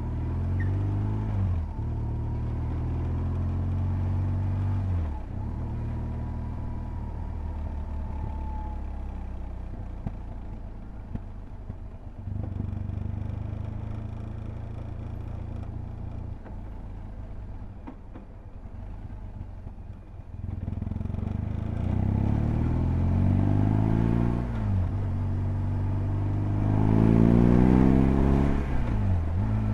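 BMW R1200GS's boxer twin engine accelerating through the gears, its pitch climbing and then dropping sharply at each upshift. In the middle it runs quieter and lower, then it pulls hard again, with two more upshifts near the end.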